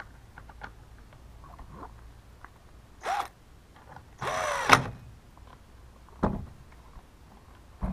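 A small electric motor whirs briefly twice with a sliding pitch, the second whir longer and louder, followed by a sharp click and a few faint handling ticks.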